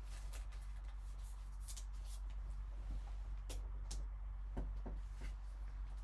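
Scattered light clicks and rustles of trading cards in hard plastic cases being handled, about seven in all, over a steady low hum.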